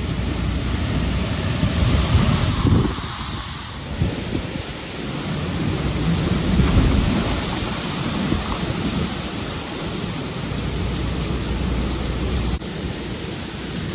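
Hurricane storm outside: wind and heavy rain with a low rumble, surging louder about two seconds in and again around seven seconds in.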